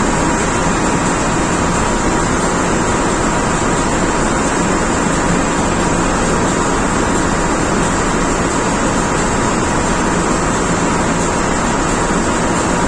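Loud, steady machinery noise of an engine room with diesel engines running: an unbroken noise with faint steady tones under it and no separate knocks or strokes.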